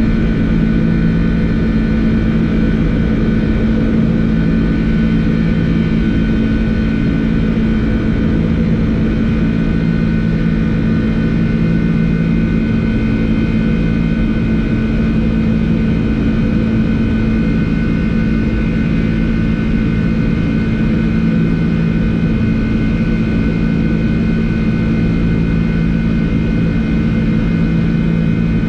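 Flight-deck noise of a Boeing 747-400 in its initial climb just after takeoff: a steady rush of airflow and jet engine noise with a strong, unchanging low hum.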